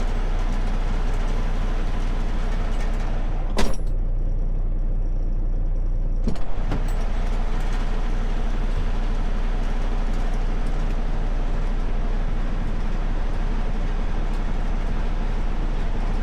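Steady rumble of a road vehicle's engine running, with two short knocks a few seconds apart.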